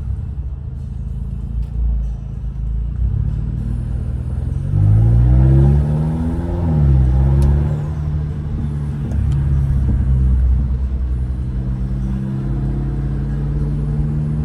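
2015 Mercedes CLA 250's turbocharged four-cylinder running through a straight-piped exhaust and open intake, driving along. About a third of the way in it rises in pitch under acceleration, then drops at an upshift and settles back to a steady cruise drone.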